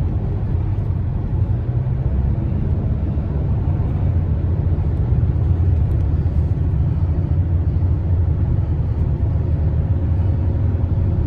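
Steady low road rumble of a moving vehicle, heard from inside it while it travels along an expressway.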